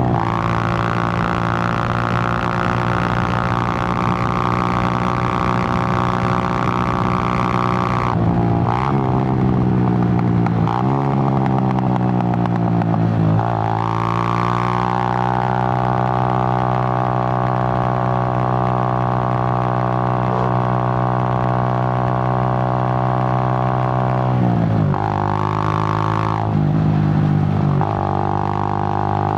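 Suzuki GN125's single-cylinder four-stroke engine running under way, a steady droning exhaust note. Its pitch dips and climbs back a few times, about a third of the way in and again near the end, between stretches at constant revs.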